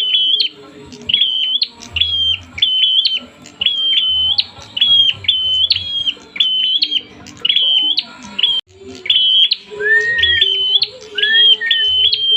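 Prinia (prenjak) calling in agitation: a fast, steady string of sharp chirps, about two a second. In the last few seconds a lower, rising note joins in with a steady lower tone.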